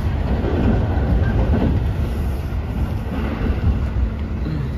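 JR train moving along the line, heard from inside the passenger car: a steady low rumble of wheels and running gear on the track.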